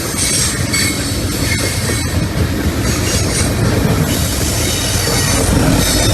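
Freight train rolling past: a steady rumble of steel wheels on rail, with intermittent high-pitched wheel squeal.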